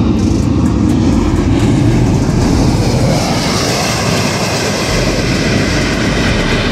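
Loud roar of a landing airliner's engines close by, with a whine that rises in pitch about three seconds in.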